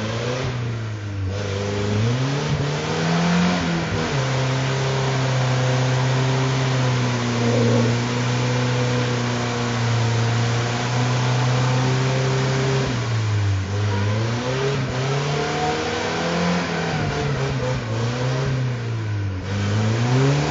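Red Toyota's engine revving while stuck in a mudhole, its bald tires spinning in the mud with a steady rough noise. The revs are held high for several seconds, then drop and climb again a few times as the driver rocks it back and forth.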